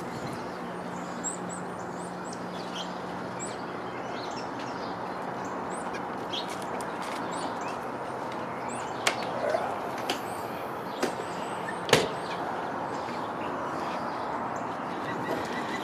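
Small songbirds giving short high chirps here and there at a feeder over a steady background rush. There are a few sharp taps about nine, ten and twelve seconds in.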